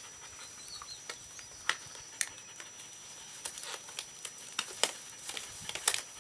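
Latex gloves being pulled on and handled: a scatter of light, sharp clicks and snaps at irregular intervals, a few of them louder, about two seconds in and near the end.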